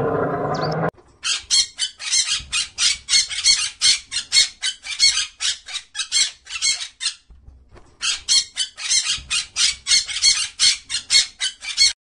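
A bird squawking in a rapid series of short harsh calls, about five a second, with a brief pause in the middle. Before it, a loud low sound stops abruptly about a second in.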